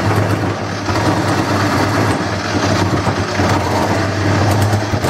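Wood lathe running with a steady motor hum while a gouge cuts into the spinning bowl blank to hollow it. The cutting noise eases off briefly a few times.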